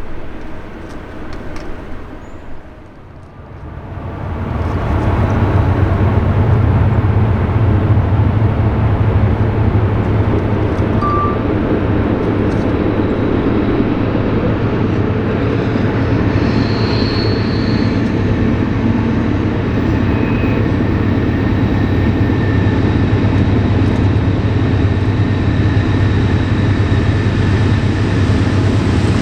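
Freight train passing close by: a steady heavy rumble of locomotives and rail cars rolling on the track, swelling up about four seconds in and then holding, with a brief high squeal near the middle.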